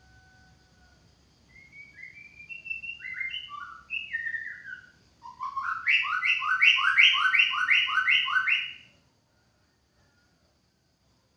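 White-rumped shama singing: a few varied whistled phrases, then a fast run of about a dozen repeated down-slurred notes, about three a second, that stops about nine seconds in.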